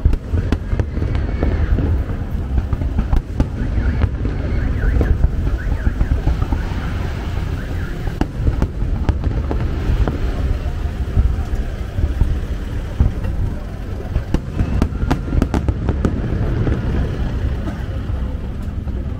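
Aerial fireworks display: shells bursting and crackling in quick succession over a continuous low rumble of booms.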